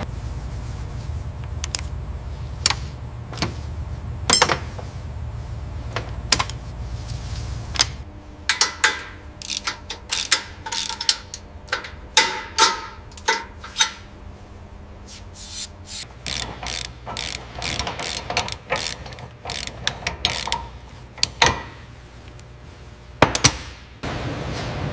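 Irregular sharp mechanical clicks and clacks of hand tools and parts being worked, at times in quick runs. Under them runs a low steady hum that drops out for several seconds in the middle.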